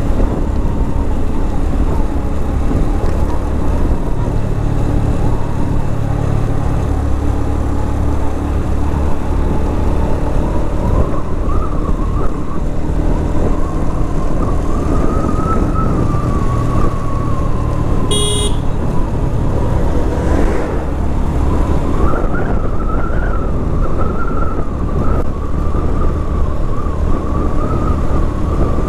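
A 112 cc TVS Victor motorcycle's single-cylinder engine running steadily under way, mixed with rumbling wind noise from riding. A brief beep sounds about two-thirds of the way through.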